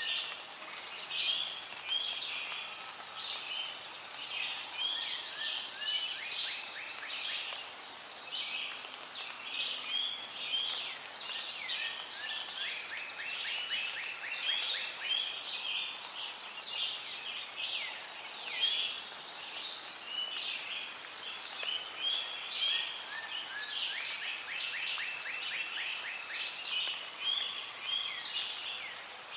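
Rainforest ambience: many birds chirping and calling at once, with fast repeated trills coming back every several seconds, over a faint steady background hiss.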